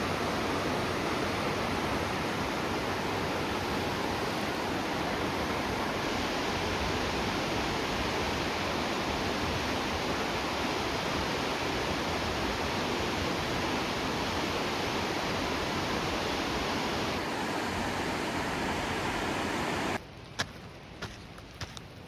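A fast-running river swollen with flood water, rushing steadily. It cuts off suddenly near the end, leaving a few light ticks.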